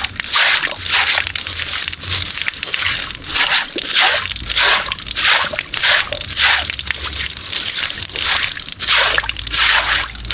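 Wet scrubbing by hand: something being washed with water in quick repeated strokes, about one or two a second.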